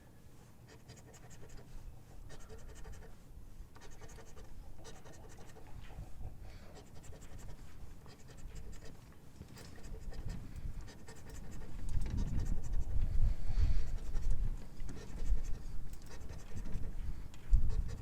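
Scratch-off lottery ticket being scratched, a run of short repeated scrapes across the coating, with heavier low rubbing from about ten seconds in.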